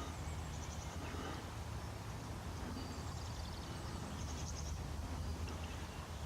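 A few short, rapid trills of high bird chirps over a steady low hum.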